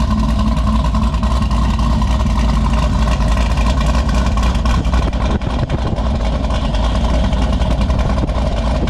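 Chevrolet Caprice engine idling, its exhaust rumbling steadily at the tailpipes.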